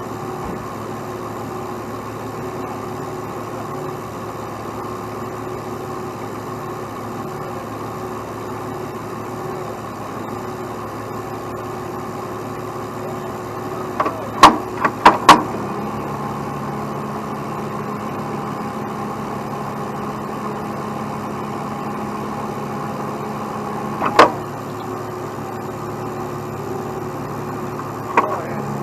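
Heavy truck engine idling steadily, its note changing about halfway through, with a quick cluster of three or four sharp knocks just before the change and two single knocks later on.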